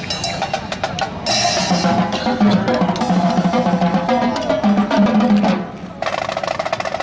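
Marching band playing: snare and bass drums, joined about a second in by loud sustained band chords that cut off near the end, followed by a dense rapid patter.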